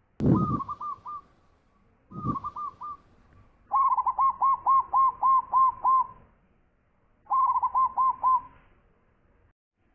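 Zebra dove (perkutut) cooing: four phrases of quick, ringing, repeated coo notes with short silences between them. The third phrase is the longest, at over two seconds. The first two phrases each open with a low thud.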